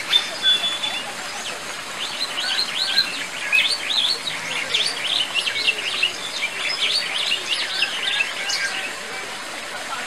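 Birds chirping: many short, high calls in quick succession, densest from about two seconds in until near the end.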